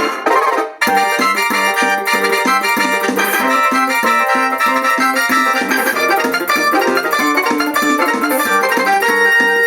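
Yamaha PSR-47 portable keyboard playing music, sped up to 1.5 times speed: a dense run of notes over a regular repeating low pattern, with a brief drop in sound just under a second in.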